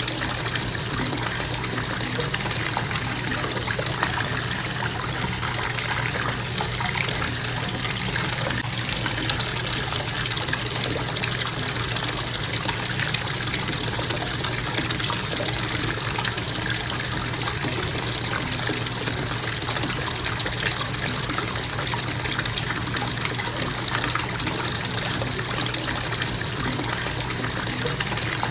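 Bathtub faucet running in a constant stream, water splashing into the tub with a steady, even rush.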